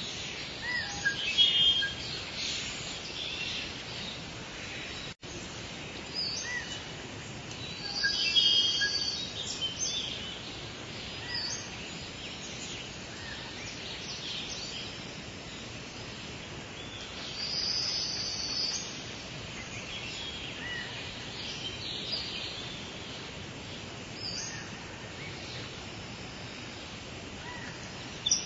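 Steady rain falling, with birds chirping now and then over it, most strongly about a second in, around eight seconds and around eighteen seconds. The sound cuts out for an instant about five seconds in.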